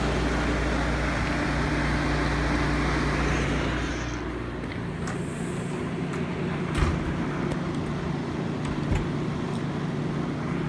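A 1965 GE Thinette 6000 BTU window air conditioner running on low cool, its fan and compressor making a steady hum and rush of air. About four seconds in, the deep hum and the hiss drop back and the sound thins. A few light knocks follow.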